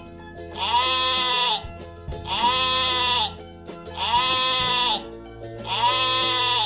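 Sheep bleating four times, each bleat about a second long and evenly spaced, over steady background music.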